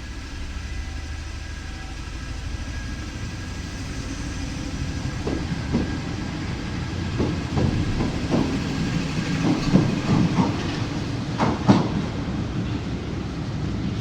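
Paris Métro train running on the rails, its rumble growing slowly louder, with faint steady whines. From about five seconds in come sharp clicks of the wheels over rail joints, the loudest near the end.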